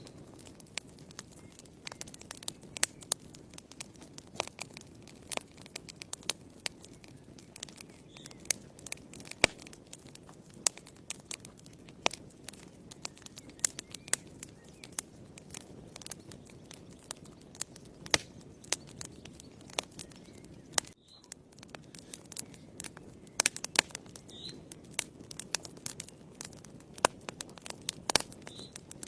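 Wood fire in a fireplace crackling, with frequent irregular sharp pops and snaps over a steady low rush of flames.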